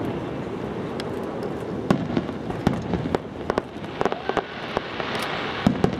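Professional aerial fireworks display: shells bursting in a run of sharp reports and crackling over a steady rumble. The loudest bangs come about two seconds in and just before the end.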